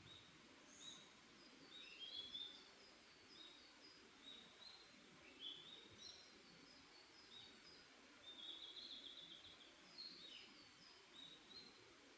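Forest birds chirping and singing faintly: many short high chirps throughout, with a longer trilled phrase about eight seconds in, over a soft steady background hiss.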